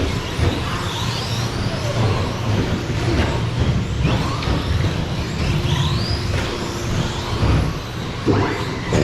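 Radio-controlled short course trucks racing, their motors whining up in pitch again and again as they accelerate, over a steady low rumble.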